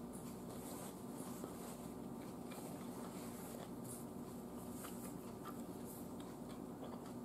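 A person quietly chewing a sub sandwich with the mouth closed: a few faint soft mouth clicks over a low steady room hum.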